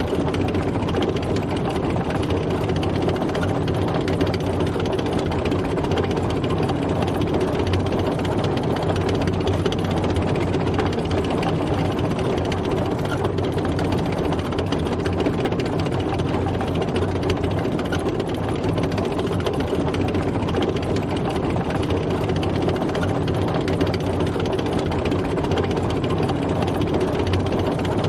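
Tank driving: its engine running steadily with the clatter of the tracks.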